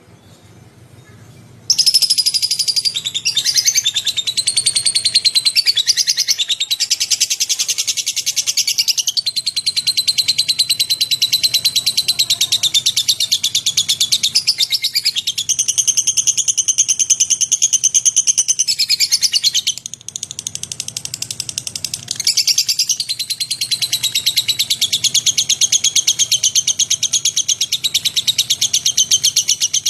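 Lovebird chattering song: a long, unbroken run of rapid, high twittering that starts about two seconds in and drops back briefly about two-thirds of the way through before picking up again.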